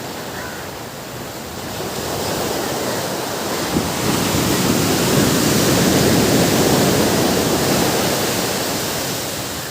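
Sea surf: a wave rushing in, swelling over a few seconds to its loudest about midway, then washing back and fading.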